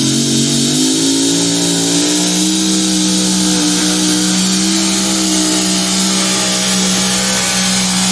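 Pulling-competition engine running at high revs under load: its pitch climbs over the first two or three seconds, then holds steady.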